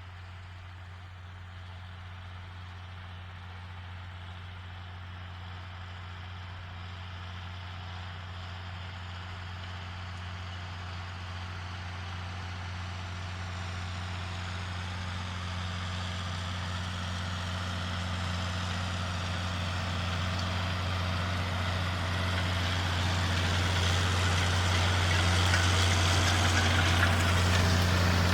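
John Deere 6920S tractor's engine running at a steady pitch and growing steadily louder as the tractor approaches, pulling a Lemken Solitair 8 seed drill. A hiss rises with it toward the end.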